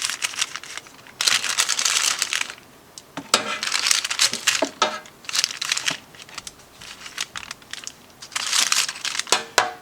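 Parchment paper lining an air fryer basket crinkling and rustling in three bursts as chicken legs are turned over on it, with a few small clicks.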